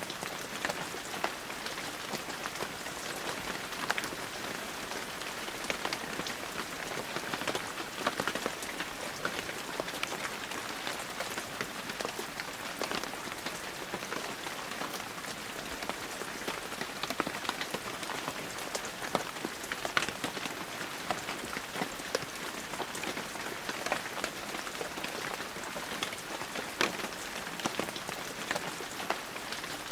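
Steady heavy rain falling, a dense even hiss with many individual drops striking close by as sharp ticks throughout.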